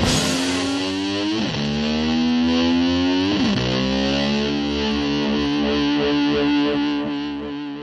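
Distorted electric guitar holding long sustained notes, dipping sharply in pitch and swooping back twice, then fading out near the end.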